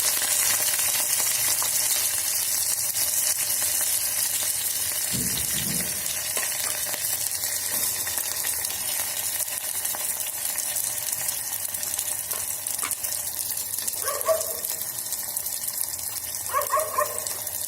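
Chopped onions frying in hot oil with mustard seeds and green chilies in an electric kettle: a steady sizzling hiss with light crackling that slowly eases as the onions settle into the oil.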